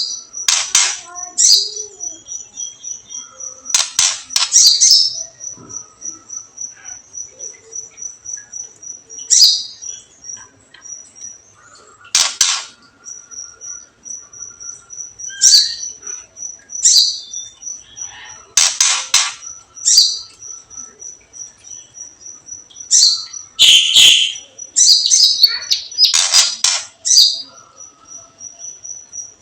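Songbirds calling: a steady, evenly repeated high ticking call runs throughout, with loud bursts of chirping and whistled song phrases every one to three seconds. This is the crackling-and-whistling call used by bird keepers to excite caged songbirds.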